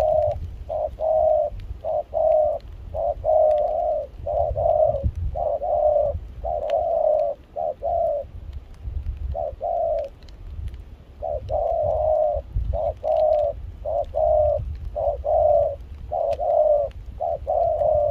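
Spotted dove cooing over and over in runs of short coos, with a pause of about two seconds near the middle. A low rumble sits underneath.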